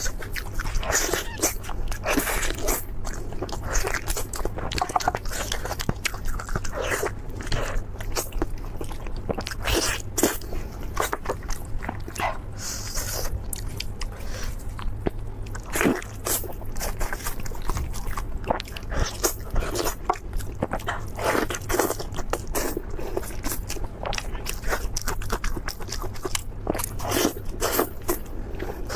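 Close-miked biting and crunchy chewing of crispy fried food, irregular crunches following one another with no pause.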